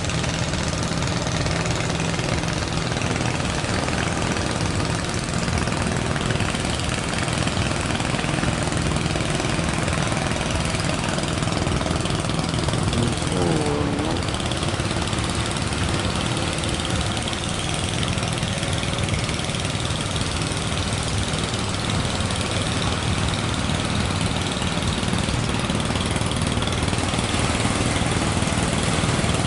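Fishing boat engine running steadily, over a constant rush of surf and wind noise.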